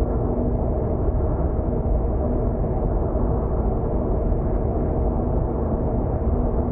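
Steady road and engine noise heard inside a car cabin at expressway speed, a constant low rumble with a faint steady hum.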